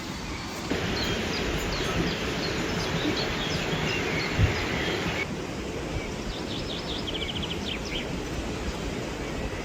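Outdoor ambience: small birds chirping over a steady rushing background noise. The background shifts abruptly about a second in and again about halfway through.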